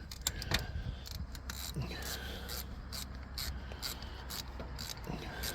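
Scattered light clicks and rubbing from hands handling a battery ground cable and its metal hardware, over a low steady hum.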